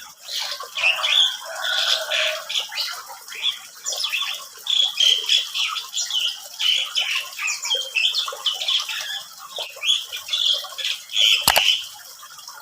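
Asian pied starling (jalak suren) singing a long, unbroken run of squawky, chattering notes. A single sharp knock sounds near the end.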